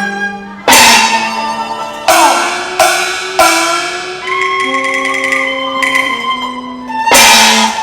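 Instrumental interlude of Cantonese opera music: held melodic lines from the accompanying instruments, punctuated by several loud percussion strikes that ring out and fade.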